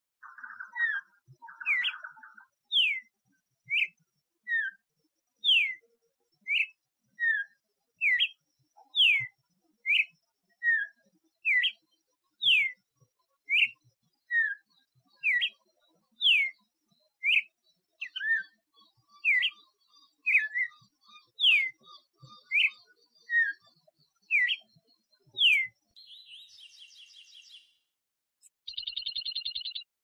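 A bird singing a long series of clear, down-slurred whistles, about one a second, with some notes starting higher and some lower. Near the end a different, rapid buzzy trill sounds twice.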